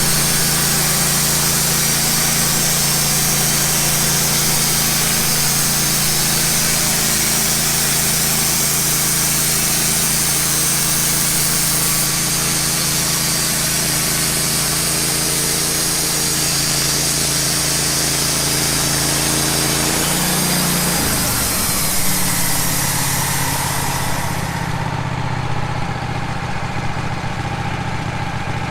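Wood-Mizer band sawmill cutting through a pine log: the engine runs steadily under load beneath a loud, high hiss from the band blade in the wood. About 21 s in, the engine note shifts. A few seconds later the cutting hiss stops suddenly, leaving the engine running on without load.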